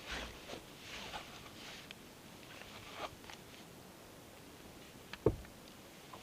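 Rustling and scraping of gear being handled, with a few light clicks and one sharp knock about five seconds in.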